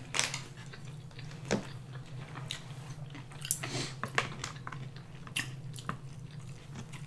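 Close-miked chewing of sushi: wet mouth sounds and scattered short lip smacks and clicks, over a steady low hum.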